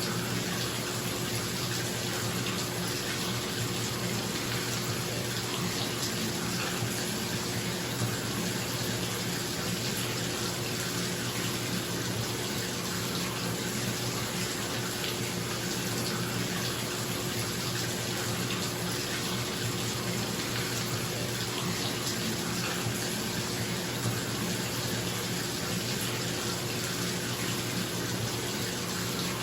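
Bathtub tap running steadily into the tub, with the even hum of a bathroom exhaust fan underneath.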